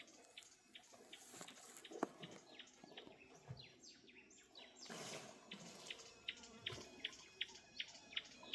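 A steady series of short, high chirps, about three a second, over faint outdoor hiss, with a brief rush of noise around the middle.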